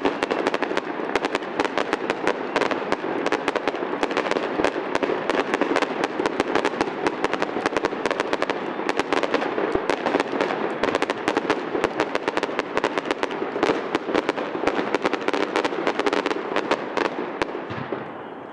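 Fireworks display crackling: a dense, rapid stream of small sharp pops and bangs, fading away near the end.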